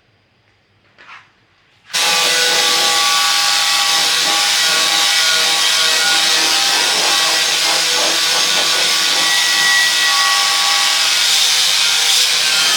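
A power tool switches on abruptly about two seconds in and runs steadily on metal with a harsh, even noise and several steady tones through it, typical of grinding or sanding a part.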